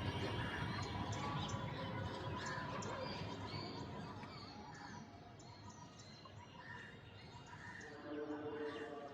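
Birds chirping: many short, high calls over a low rumble that fades away about halfway through.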